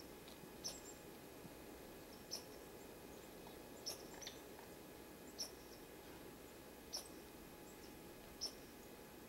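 Faint, short, high call notes from a small bird, repeated about every second and a half.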